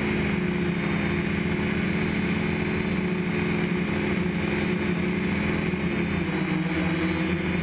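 DJI F550 hexacopter's six electric motors and propellers running in flight: a steady multi-toned buzz whose pitch shifts a little about six seconds in, with a thin steady high whine above it.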